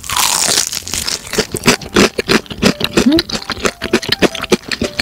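Close-miked bite and chewing of crispy brown-rice-batter fried chicken, the crust crunching and crackling. A loud crackling crunch of the first bite about a second long, then a rapid, irregular run of sharp crunches as it is chewed.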